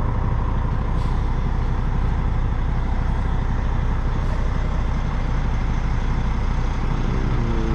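Semi truck's diesel engine running at low speed while the rig reverses into a loading dock, a steady low rumble heard from inside the cab. Near the end, a higher hum rises briefly and then holds.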